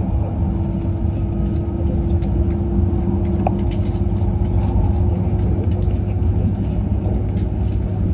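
Cabin noise of an E6-series Komachi shinkansen train running at speed: a steady low rumble from the wheels and track, with a steady hum and a few faint clicks.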